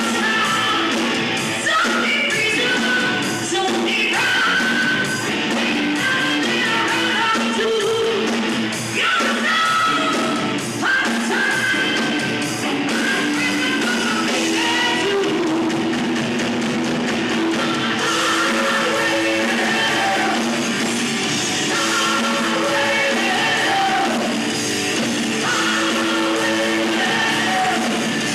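A rock band playing live, with electric guitar and a singer.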